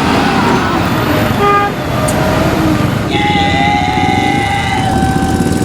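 Vehicle horns honking over a steady rumble of engines: a short toot about a second and a half in, then a long two-tone horn blast from about halfway through to the end.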